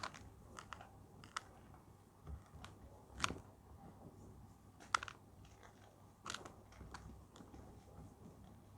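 A pressed block of gym chalk being crushed and crumbled: scattered crisp crunches and snaps with short gaps between them, the loudest about three seconds in and again near five seconds.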